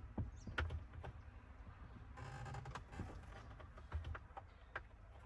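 Scattered light clicks and knocks as the clipped-in horn pad on a pickup's steering wheel is pried at and worked loose by hand, with a brief scraping rustle a little over two seconds in.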